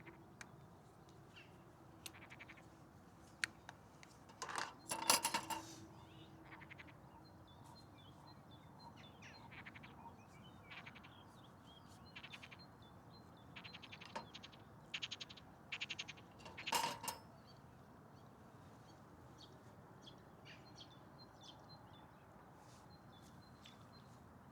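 Metal cookware and utensils being handled at a camp stove: scattered light clinks and knocks, with two louder rattling clatters, about five seconds in and about seventeen seconds in, that ring briefly.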